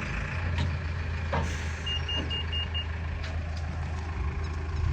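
Heavy diesel vehicle engine running steadily at low revs, with a reversing alarm giving five short high beeps about two seconds in, plus a few knocks.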